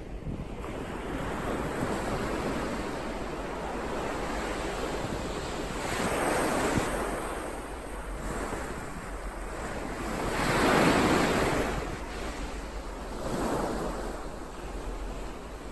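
Ocean surf: waves breaking and washing in, in slow swells of a few seconds each, the loudest about two thirds of the way through.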